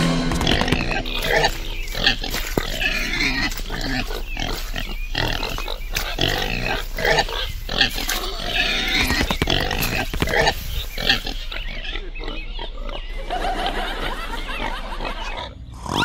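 Pig vocalizations, a continuous run of short irregular grunts and calls, laid over the toy-pig scene as a sound effect. They dip briefly near the end.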